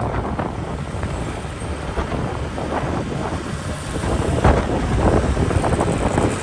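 Wind buffeting a phone microphone on a moving motorbike, over the noise of the motorbike and the surrounding traffic. The gusts get stronger about four seconds in.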